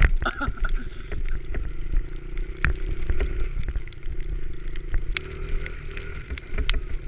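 A small pit bike engine running, with heavy low rumble and scattered knocks and clicks throughout.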